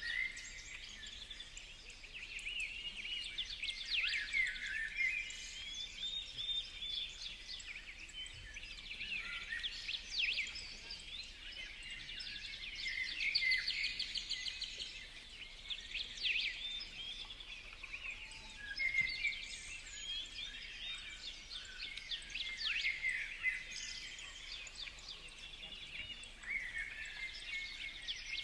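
Many small birds chirping, a dense, unbroken chorus of short, overlapping high calls and trills.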